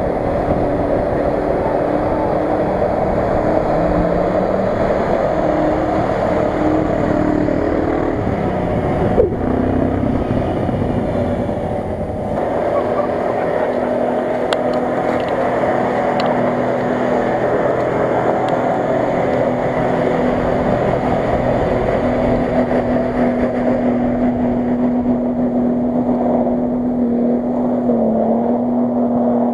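Off-road 4x4 engines running and revving as the vehicles drive through deep mud, the engine pitch rising and falling. For the first dozen seconds wind buffets the microphone under the engine sound; later one engine holds a steady note.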